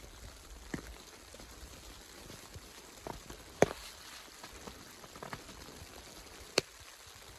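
Scattered sharp taps or clicks, five or so at irregular intervals, over a faint steady hiss; the sharpest come about three and a half and six and a half seconds in.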